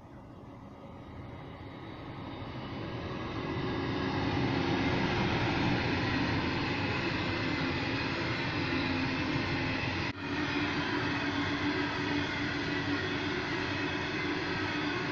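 Long coal train of hopper wagons passing, its rumble and wheel clatter building over the first few seconds as the locomotives approach, then running steadily as the wagons roll by. There is a momentary dropout about ten seconds in.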